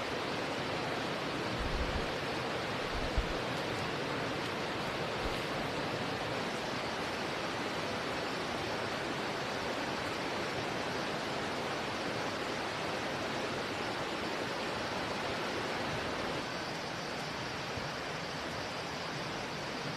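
A steady rushing noise with no tone in it, slightly quieter from about sixteen seconds in, with a couple of faint low thumps two to three seconds in.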